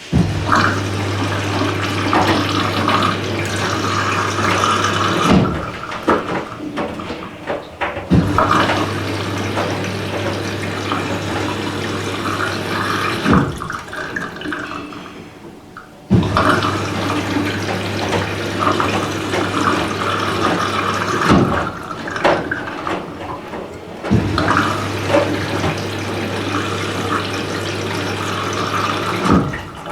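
Candy Smart Inverter front-loading washing machine running with water splashing and rushing inside. A low steady hum runs for about five seconds, cuts out for about three, and starts again, repeating through the cycle.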